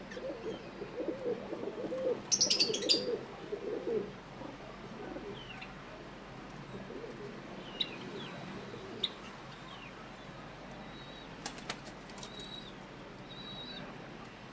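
Pigeon cooing, a string of low repeated coos over the first four seconds, with a short loud burst of wing flapping about two seconds in. Faint high chirps from small birds follow.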